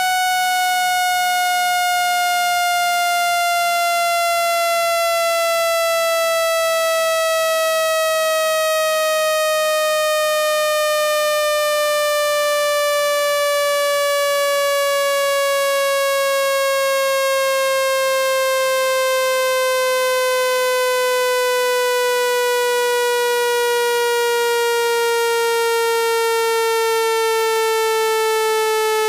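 Electronic speaker-cleaning tone for driving water out of a phone speaker. It is one buzzy, steady tone with strong overtones, sinking slowly and evenly in pitch at constant loudness.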